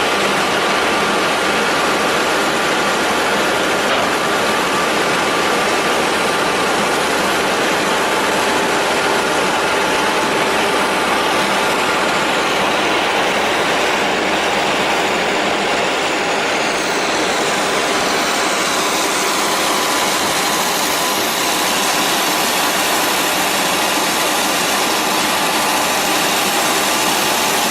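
Steady machinery noise from a DS-100 dust-suppression fog cannon spraying beside a working truck, with a faint high whine running through it. The hiss grows brighter about two-thirds of the way through.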